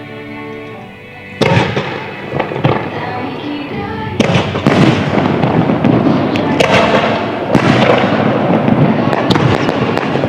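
Fireworks display: after a moment of music, shells start bursting about a second and a half in, followed by a rapid run of bangs and dense crackling. Music keeps playing underneath.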